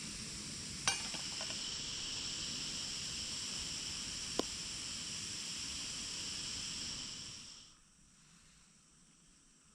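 A steady, high-pitched insect chorus drones on, with two sharp clicks, about a second in and again near the middle; the chorus fades away in the last two seconds.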